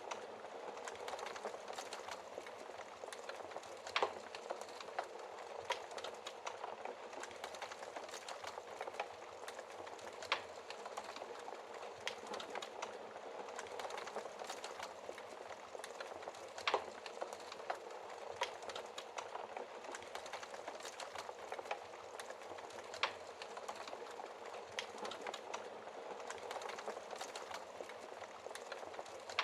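Wood fire burning in a fireplace: a steady, dense crackle of small snaps, with a sharper pop of burning wood about every six seconds.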